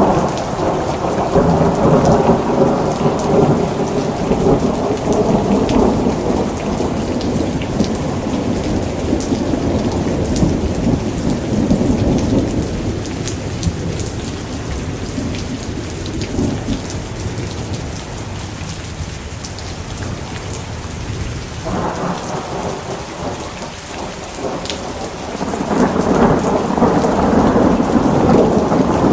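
Steady rain with rolling thunder: a long low rumble dies away over the first dozen seconds, and a second roll builds about two-thirds of the way through and is loudest near the end. Small sharp crackles are scattered throughout.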